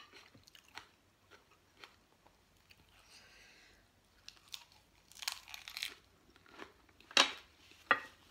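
Close-up eating sounds: a mouthful of fresh lettuce-leaf wrap being crunched and chewed, with a dense crisp crunch about five seconds in and two sharp crackles near the end.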